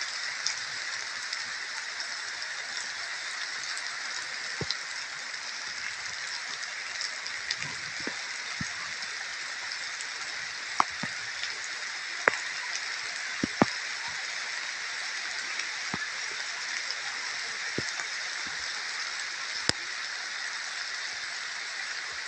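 Steady rain falling: an even hiss with scattered sharp taps of single drops.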